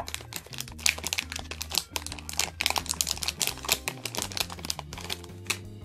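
Foil blind-bag packet crinkling and crackling in irregular bursts as it is torn open and handled by hand.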